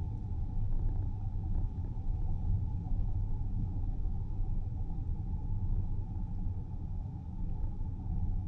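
Steady low rumble of a car driving along a road: tyre and road noise with engine drone.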